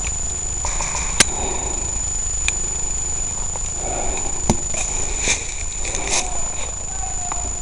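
Low rumbling noise on the microphone with a steady high-pitched whine, two sharp clicks about a second in and midway through, and scattered rustling of movement.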